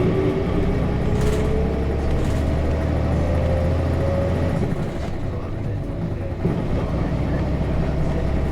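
Nissan Diesel KC-RM211GSN bus's FE6 inline-six diesel running under way, heard from inside the bus, with a whine that rises slowly over the first four seconds or so. The engine note drops away about five seconds in and picks up again about a second and a half later.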